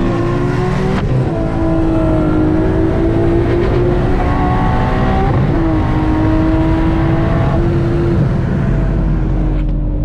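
Nissan VQ V6 engine accelerating hard at full throttle, its pitch climbing steadily through each gear and dropping back at upshifts about a second in, about five and a half seconds in and about eight seconds in.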